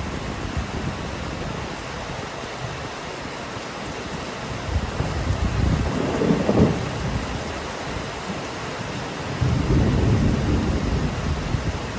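Steady rain with thunder rolling twice: a low rumble swells about five seconds in and fades after seven, and another comes in near ten seconds.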